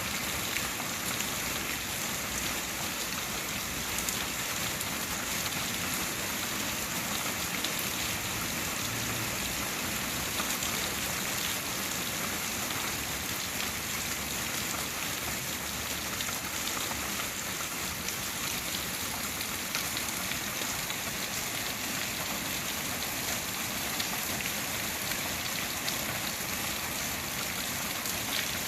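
Steady rain falling, a continuous hiss with scattered drops ticking on a surface.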